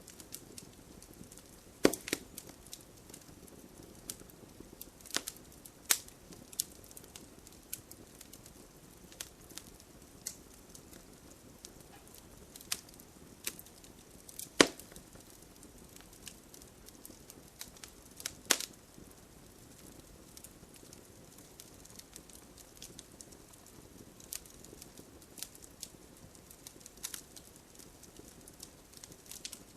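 Wood fire crackling: irregular sharp pops and snaps over a faint steady hiss, with a few louder pops about two seconds in, near the middle and a few seconds later.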